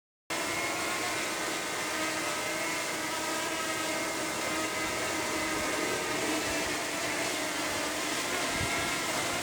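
DJI quadcopter drone hovering, its propellers giving a steady whine of several stacked tones; it cuts in abruptly just after the start.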